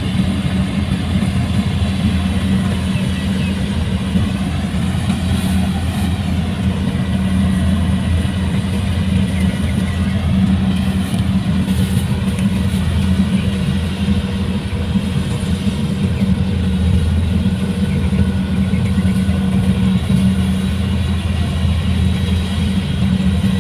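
Heavy farm machine's diesel engine running steadily, a constant low hum with no big change in speed.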